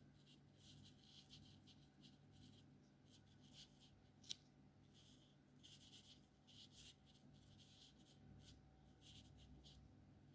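Alcohol-based felt-tip markers stroking on paper: soft, short scratchy strokes in quick, irregular succession, with one sharp click about four seconds in.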